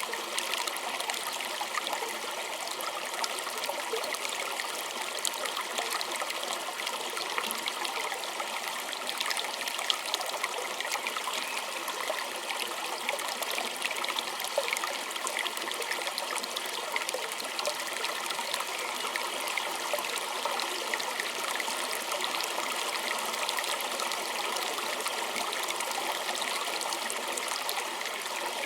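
Small stream or creek flowing and trickling over stones, a steady babble of many small splashes and gurgles.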